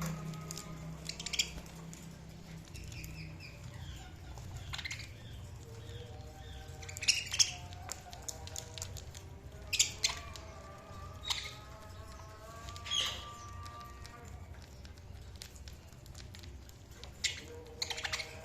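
Budgerigars chirping and warbling: a soft, running chatter broken by short, sharp chirps every second or few.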